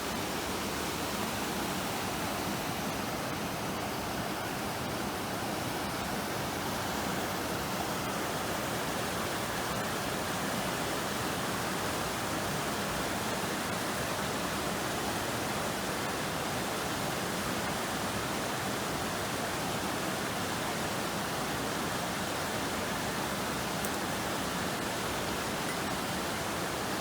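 Steady rush of the Grey Wolf River's flowing water, an even hiss that does not change.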